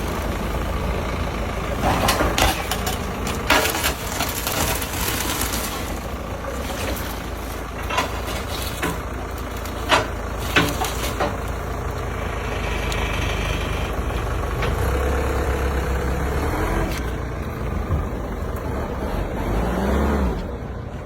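A heavy vehicle engine running steadily, with several sharp knocks and a brief hiss.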